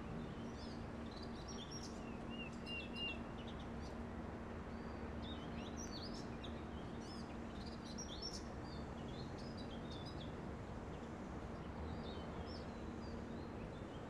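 Small birds chirping in many short, quick calls over a steady background hiss and a faint low hum.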